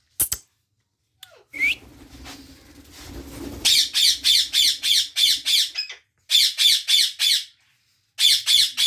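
Indian ringneck parakeet screeching: a couple of single high calls, then three runs of harsh, rapidly repeated screeches, about four a second.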